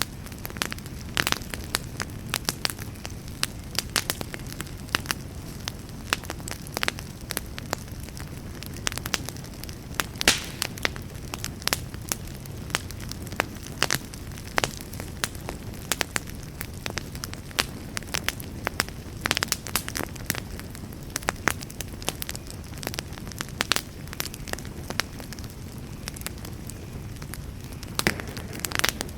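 Fire burning in a fireplace: a steady low rumble of flame with frequent irregular crackles and sharp pops.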